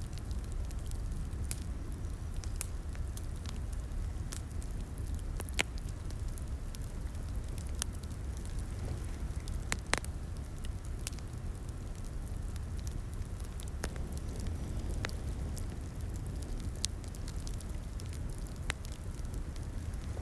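Fireplace crackling: a steady low rumble of the burning fire with irregular sharp pops and snaps from the wood, a couple of them louder than the rest.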